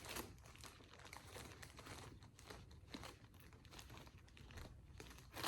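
Faint crinkling and rustling with a few light clicks, as of something being handled.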